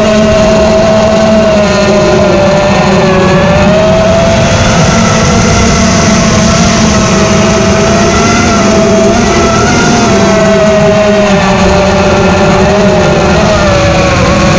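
5-inch FPV quadcopter's motors and propellers whining continuously, the pitch wavering up and down with throttle changes.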